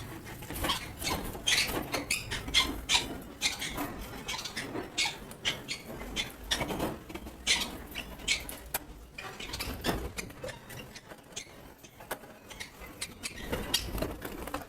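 Scattered light tapping, scraping and rustling as bird feed and grated carrot and beetroot are handled in feed pots inside a conure cage, with occasional small clinks.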